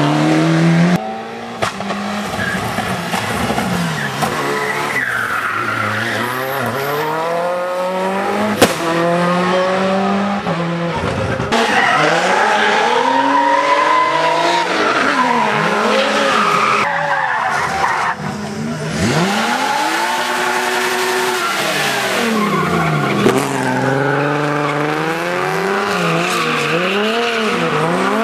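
Rally car engine working hard on a hill climb, its pitch repeatedly rising and falling as it revs up, lifts and shifts, with many short up-and-down sweeps.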